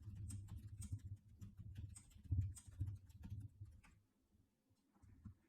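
Faint run of quick, irregular clicks over a low rumble, like keys and a mouse being worked at a desk, for about four seconds, then it goes nearly quiet.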